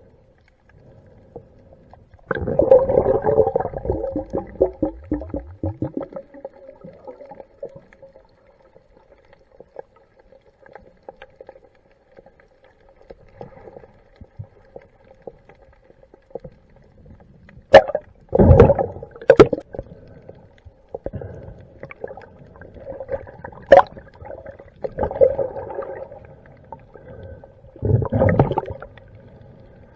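Muffled underwater sound around a diver's camera, with several loud bursts of bubbling and rushing water and a few sharp clicks.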